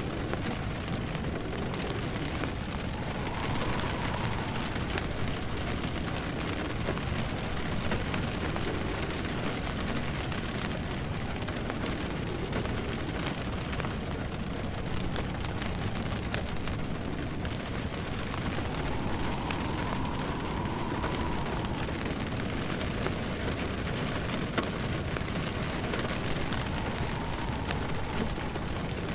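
Steady rain falling, with a wood fire crackling in a fireplace.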